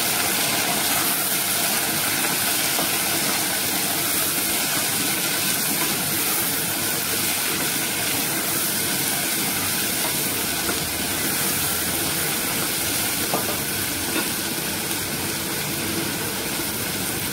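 Diced potatoes and onions sizzling in hot oil in an aluminium pressure cooker, with a steady frying hiss, stirred with a wooden spatula.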